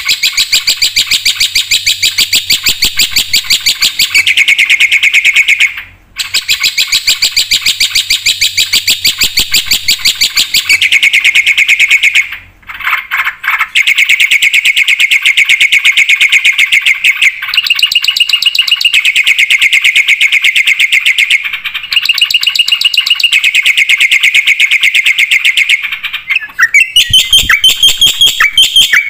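Black-winged myna (jalak putih) singing loudly in full song: long bouts of very rapid repeated chattering notes, broken by short pauses about six and twelve seconds in, and changing near the end to a run of quicker, wavering whistled notes.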